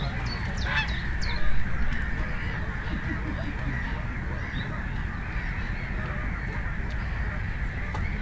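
Birds honking a few times in the first second or so, then steady background noise with a low rumble.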